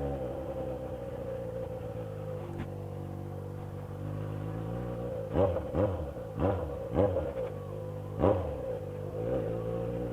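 Yamaha XJ6 motorcycle engine idling steadily, then blipped through about five quick throttle revs in the second half, each rising and dropping back to idle.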